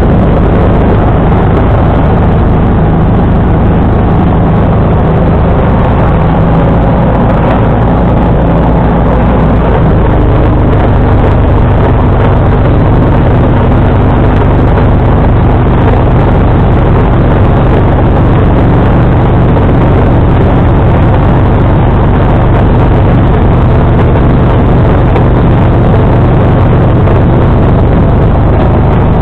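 John Deere 445 garden tractor's engine running steadily while it drives a 47-inch snowblower. The engine note shifts about ten seconds in.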